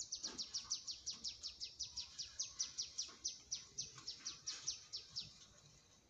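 A small bird calling: a rapid, even series of high notes, each sliding down in pitch, about six a second, that stops about five seconds in.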